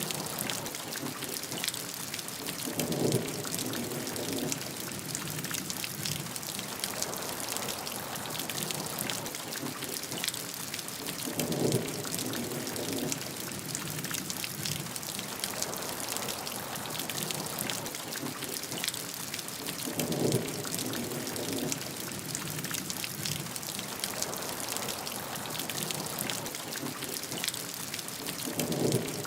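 Steady heavy rainfall with many close drop hits. A brief deeper swell comes through four times, about every nine seconds, a little louder than the rain.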